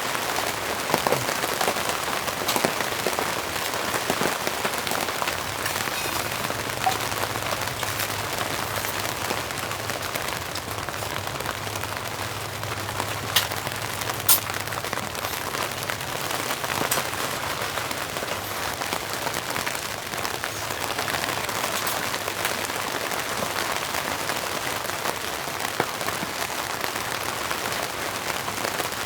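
Steady rain falling, an even patter with scattered drops ticking and a couple of sharper taps about halfway through.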